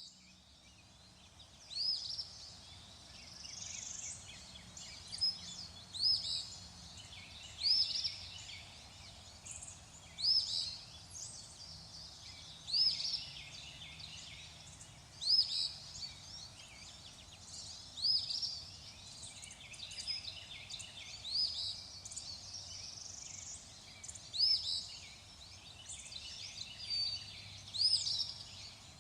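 Birds singing: one bird repeats a short, high call that rises and falls, about every two to three seconds, over a steady chatter of other birds.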